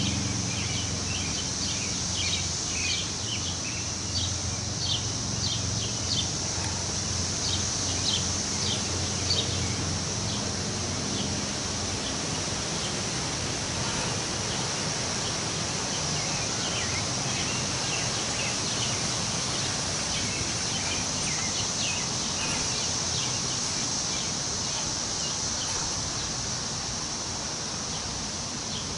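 Wind rustling the leaves of trees, over a steady high insect drone, with short bird chirps coming in clusters through the first ten seconds and again past the middle.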